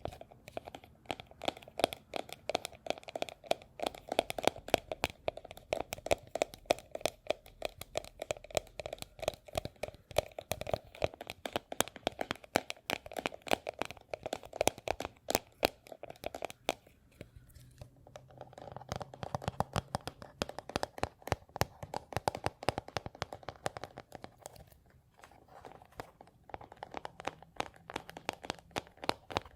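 Close-miked ASMR crinkling and crackling: a dense, rapid run of small clicks that pauses briefly about seventeen seconds in and then carries on.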